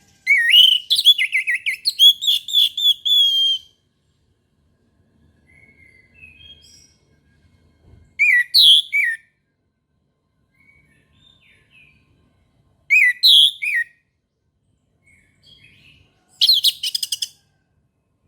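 Orange-headed thrush singing: a long run of quick, varied whistled notes at the start, then three short phrases a few seconds apart.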